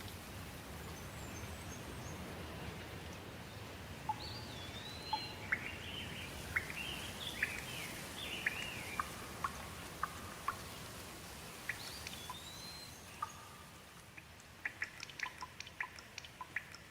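Steady rain with birds chirping and calling over it, in short, rising and falling whistled notes. Near the end the rain thins out, leaving a quick run of short chirps.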